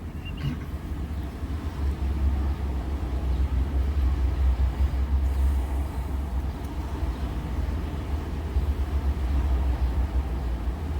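Steady low rumble of a running vehicle, with a faint click about half a second in.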